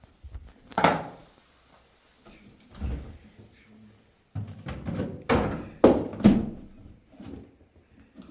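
A series of knocks and thumps: a sharp knock about a second in, a duller thump near three seconds, then a quick run of loud knocks in the second half.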